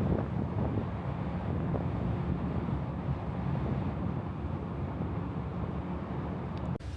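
Wind buffeting the microphone over the steady low rumble of a ferry underway; the sound drops and changes abruptly near the end.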